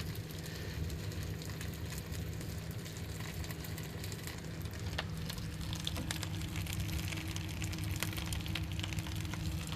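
Fat boiling and spilling over in a wood-burning stove, sizzling with scattered sharp crackles as it burns, over a steady low hum.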